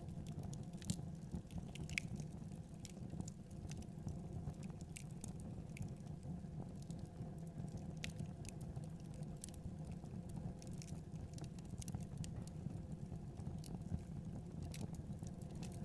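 Fire in a fireplace crackling: irregular sharp snaps and pops over a steady low rumble of the flames.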